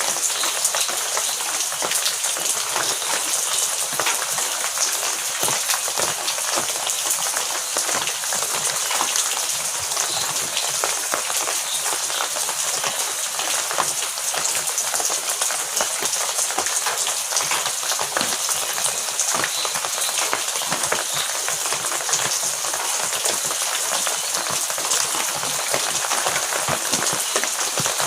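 Heavy rain falling steadily: a dense, even hiss of countless drops pattering down, with no break or change in strength.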